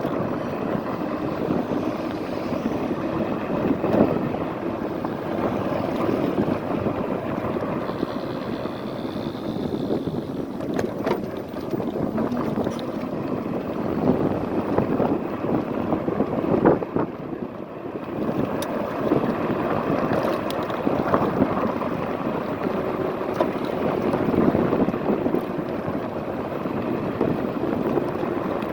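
Wind rushing over the microphone and road noise while riding an electric fat-tire scooter, with scattered sharp knocks as bumps jolt the handlebar-mounted phone.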